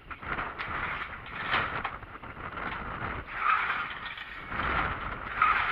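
Small garden tractor engine being cranked over without catching, a rough uneven churning that surges and fades: it won't fire without choke.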